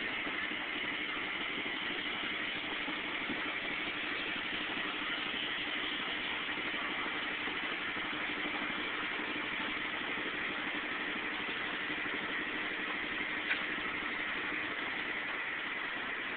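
A stopped train's locomotive idling: a steady even hiss and hum that does not change, with one short click about thirteen seconds in.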